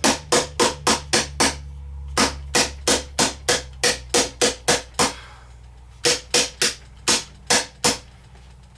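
Small hammer striking a chisel into a plaster treasure-dig block: rapid sharp taps at about four a second, in three runs with two short pauses, stopping near the end.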